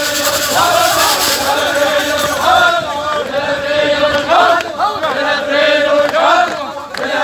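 A group of men's voices chanting together in unison in short repeated phrases, a funeral chant, over crowd noise.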